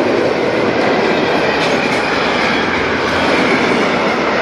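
Freight train of car-carrier and covered wagons passing close by, with the loud, steady noise of its wheels running on the rails.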